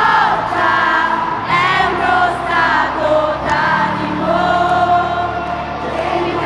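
Live pop-rock band music with a large crowd singing along loudly.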